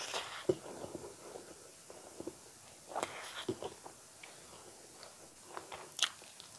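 Close-miked mouth sounds of someone eating rice and eel curry by hand: soft chewing and smacking with scattered small clicks. A few brief louder bursts come about half a second in, around three seconds in and about six seconds in.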